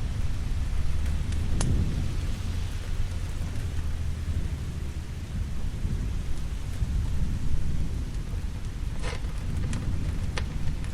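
Steady rain with a continuous low rumble of thunder. A few sharp pops of a crackling wood fire come through: one near the start and three near the end.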